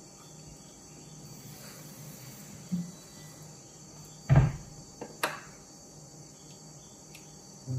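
Steady high chirring of crickets in the background, broken by a few knocks on the kitchen counter: a small one, then a loud thump about four and a half seconds in, and a sharp click just after.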